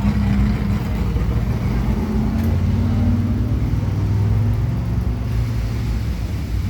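A car engine running at low revs, its pitch stepping up slightly about two seconds in.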